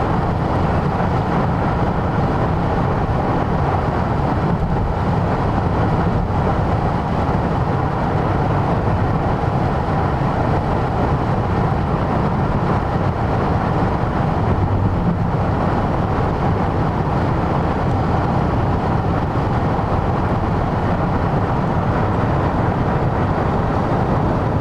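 Steady road and engine noise inside a moving car's cabin, an even rumble with no change throughout.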